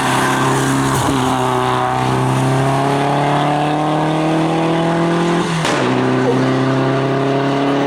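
Toyota Celica rally car's engine pulling hard through a gear, its pitch climbing steadily, then dropping sharply on an upshift about five and a half seconds in and climbing again.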